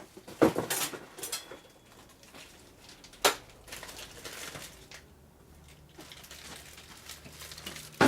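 Brake line parts being handled and set down in the workshop: a loud clatter about half a second in, a single sharp knock about three seconds in, and another sharp hit near the end.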